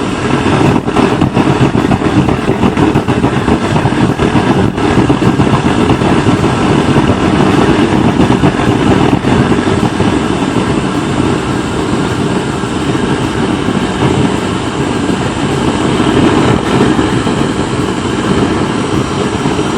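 Waste oil burner firing on a mix of used engine oil and diesel, giving off a steady, loud, rushing noise.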